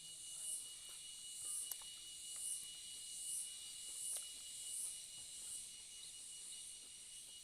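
Insect chirping in high-pitched pulses, about one a second, over a steady high whine, with a few faint clicks.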